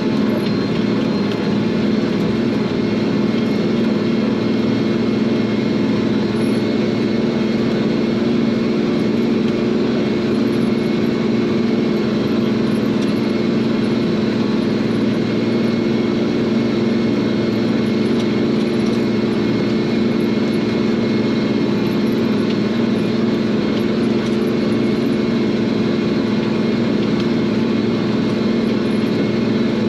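Tractor engine running at a steady speed while pulling a field cultivator, a constant drone with no change in pitch or level.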